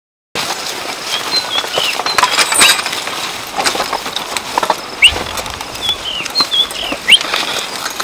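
Small birds chirping in short, curved whistles that come again and again, over steady rustling and scattered clicks.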